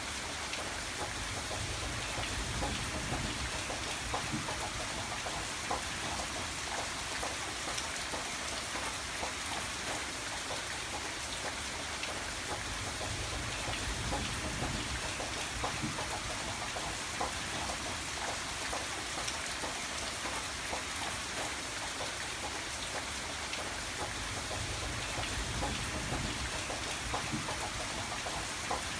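Steady rain falling, an even hiss with many separate drop ticks through it, and a low rumble that swells and fades a few times.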